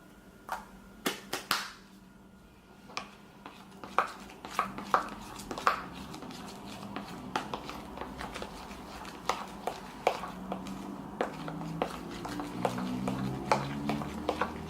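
Irregular sharp clicks and taps as a peel-off face mask and shaving gel mixture is stirred in a bowl for slime. Music with a stepped melody comes in about ten seconds in.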